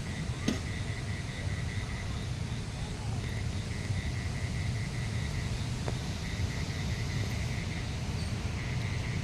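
Insect chirping in repeated trains of rapid high pulses, each train lasting a second or two with short gaps between, over a steady low rumble. A couple of faint clicks fall in the middle.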